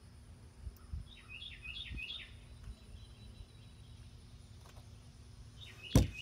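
A bird calling: a quick run of high, down-slurred chirps about a second in, and another run near the end. Near the end a single sharp knock is the loudest sound, with a few soft low thumps earlier.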